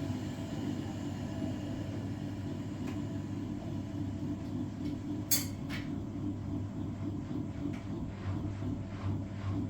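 Washing machine with its drum motor paused: a low rumble and soft knocks, with two sharp clicks about halfway through. The motor hum sits on either side of this gap.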